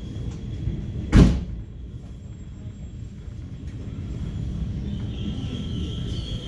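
Korail Class 351000 electric train on the move, heard from on board: a steady low rumble, a single loud thump about a second in, and a steady high whine that sets in near the end.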